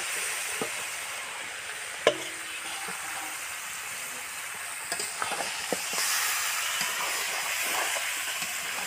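Marinated chicken pieces sizzling in hot oil in a karai as they go in, with a metal spatula clicking and scraping against the pan while they are stirred. A sharp knock about two seconds in, and a quick run of clicks around five seconds.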